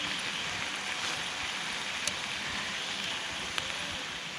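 Steady hiss of rain falling on the tent, with two sharp ticks about two and three and a half seconds in.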